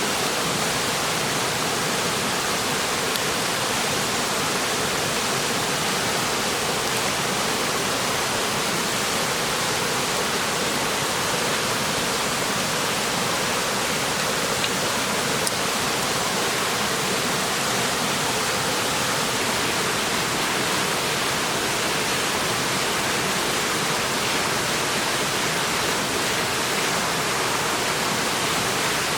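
Clear mountain stream rushing steadily: a continuous, even wash of flowing water.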